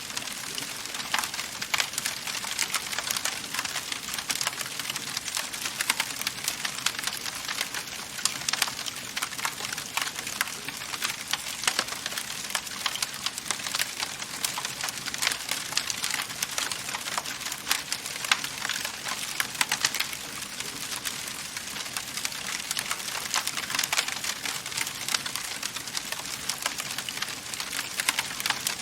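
Wood fire burning in a fireplace, crackling and popping constantly over a soft steady hiss.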